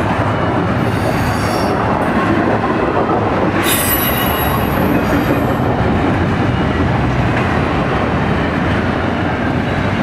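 Double-stack intermodal well cars of a freight train rolling past at speed with a steady rumble and rattle of wheels on rail. A high-pitched metallic wheel squeal rises about three and a half seconds in and lasts about two seconds, with a fainter one about a second in.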